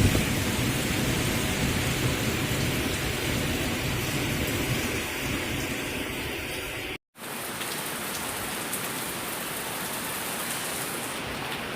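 Heavy cyclone rain falling steadily, with a low rumble under it for the first several seconds. The sound drops out for an instant about seven seconds in, then the rain carries on as an even hiss.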